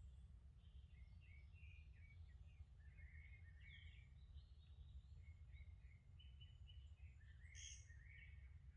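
Faint songbirds chirping and warbling in a forest, many short notes over a steady low rumble, with one brighter, higher call near the end.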